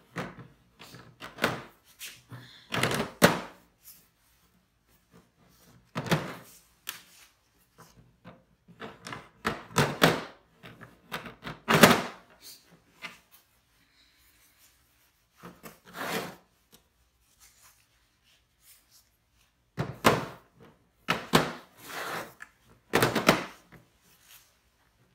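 Hard plastic Festool Systainer case knocking and thunking against a wooden cart base as it is worked down onto 3D-printed cleats. The knocks come irregularly, some in quick clusters, with quiet gaps between.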